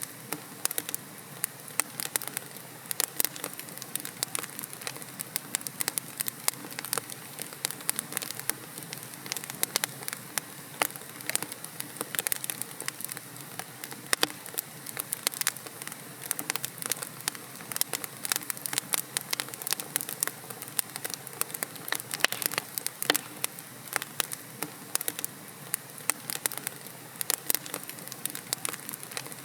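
Wood logs burning in a fireplace: a steady low hiss with dense, irregular sharp crackles and pops throughout.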